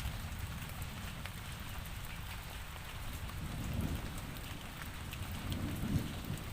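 Steady rainfall with scattered sharp drop ticks, over a low rumble that swells briefly twice.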